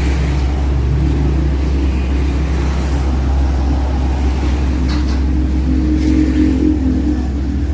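Concrete mixer truck's diesel engine running steadily at idle, a low constant hum. A couple of faint clicks come through about five and six seconds in.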